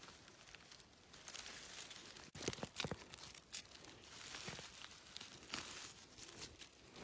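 Faint rustling and crackling of dry leaf litter and undergrowth as wild hazel mushrooms are picked by hand, with irregular small snaps and a few sharper cracks about two and a half to three seconds in.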